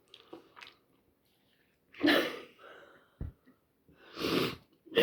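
A man sneezing about two seconds in, followed by a second forceful burst of breath near the end, a reaction to the chilli heat of a Pepper X vindaloo; a short soft knock falls between them.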